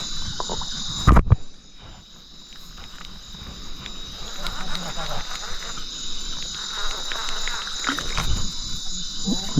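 Chorus of insects, crickets among them, trilling steadily and high-pitched, with one loud knock about a second in.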